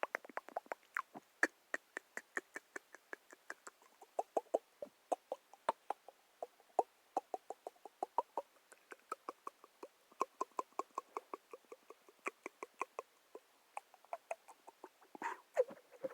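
Quick, irregular clicks and taps, several a second.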